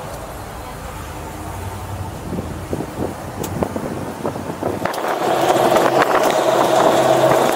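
Open-air 4x4 tour truck driving off-road, its engine running steadily with the body rattling. About five seconds in it gets louder, with a higher steady engine note and more frequent rattles.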